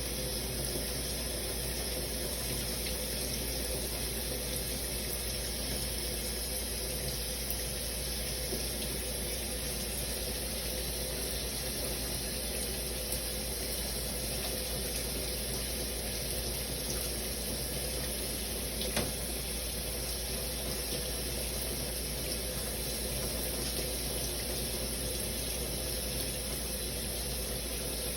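Shower running: a steady, even spray of water, with one small click about two-thirds of the way through.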